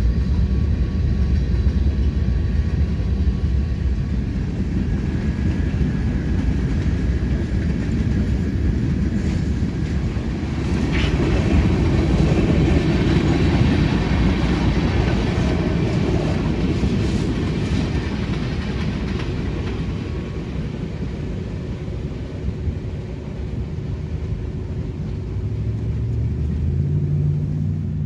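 Freight train of hopper and tank cars rolling past: a steady rumble and clatter of steel wheels on rail, with a short high squeal about eleven seconds in. Near the end, once the train has cleared, a car engine rises as traffic pulls away.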